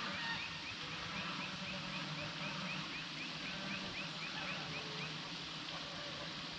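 A bird calling in forest ambience: a run of about twenty short, rising notes, about four a second, that stops about five seconds in, over a steady low hum.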